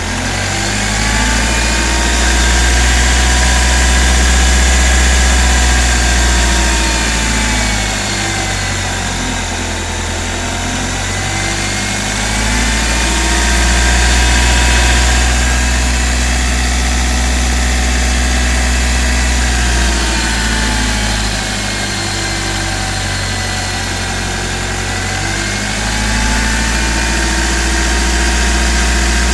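Hyundai i20 engine revved up and held, then let fall back toward idle, three times over, its pitch rising and falling each time. It carries the timing chain noise that the mechanic diagnoses as the chain making noise.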